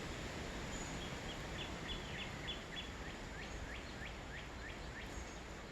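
A bird singing a faint series of about fifteen quick repeated notes, the later ones sweeping upward, over a steady outdoor hiss.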